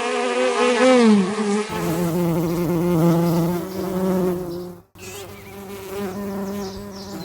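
Housefly buzzing in flight: a steady pitched drone that wavers slightly, breaks off for an instant near the end, then carries on quieter.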